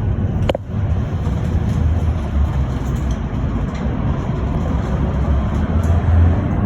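Cabin noise of a moving electric bus: a steady low rumble of tyres and road, with a short click about half a second in.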